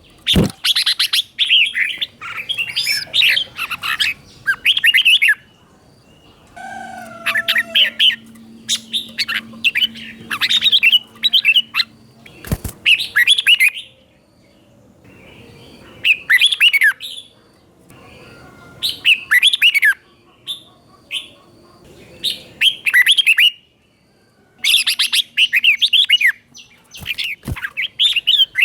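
Red-whiskered bulbul singing: short, bright warbling phrases in bursts of a second or two with brief pauses between, in the doubled ('beun') song style used to teach young cage birds. A sharp click about halfway through.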